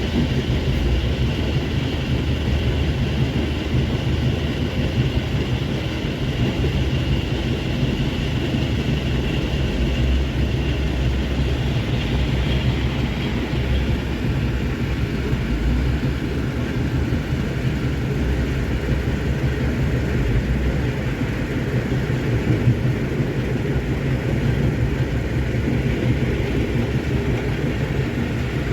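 Fully loaded Hino 500 dump truck's diesel engine running under heavy load on an uphill climb, a steady low rumble.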